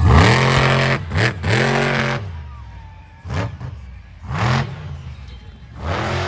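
Monster truck engine being revved in a series of short throttle blips, about six, each rising and falling in pitch, with the engine running lower between them.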